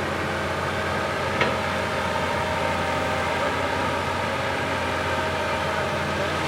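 Diesel engine of a heavy earthmoving machine running steadily, with a single sharp knock about one and a half seconds in.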